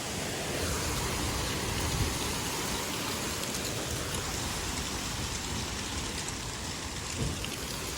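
Windstorm noise: a steady rushing hiss with uneven low rumbling gusts underneath.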